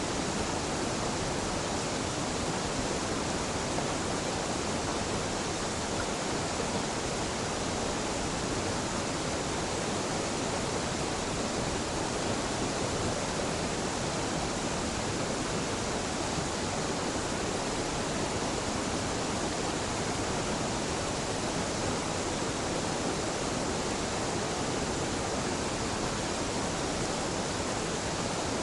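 Waterfall pouring steadily into a mountain stream: a constant, even rush of water.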